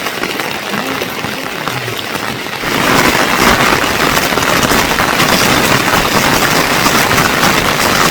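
Heavy rain falling as a steady hiss, growing suddenly louder a little under three seconds in.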